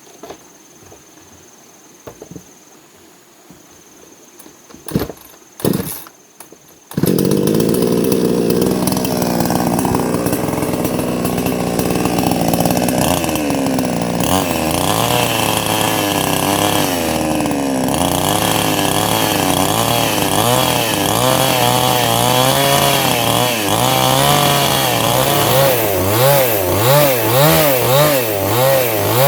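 A few sharp knocks, then a chainsaw starts about seven seconds in and runs loudly, its engine pitch dipping and rising as it is worked.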